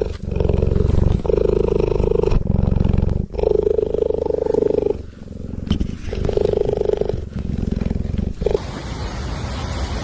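An animal making long, low roaring calls, four or five in a row, each a second or more. Near the end they give way to a steady hiss.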